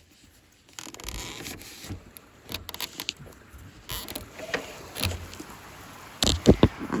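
Heavy rain pouring outside, heard as a steady hiss that comes in about a second in as a window is lifted open, with clicks and knocks from the window being handled. A few loud low thumps near the end.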